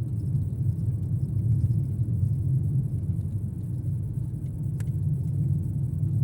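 Steady low rumble of a car's engine and road noise heard inside the cabin, with one brief sharp click about five seconds in.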